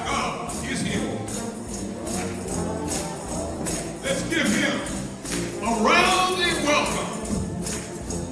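Gospel shout band playing, with rhythmic tambourine jingles shaking on the beat under the band's sliding, pitched lines.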